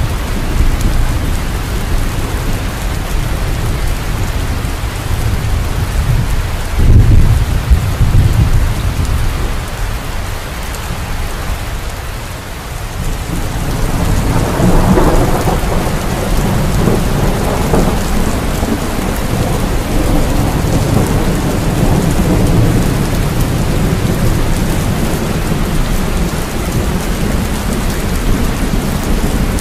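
Steady rain with thunder: a short low clap about seven seconds in, then a long rolling rumble that builds from about halfway and carries on under the rain.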